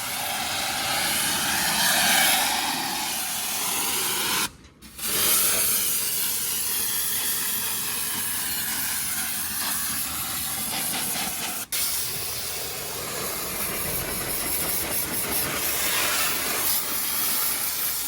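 Car-wash pressure washer wand spraying water onto wheels, a steady hiss, to blast off paint and dirt. It cuts out briefly about four and a half seconds in and again for a moment near twelve seconds.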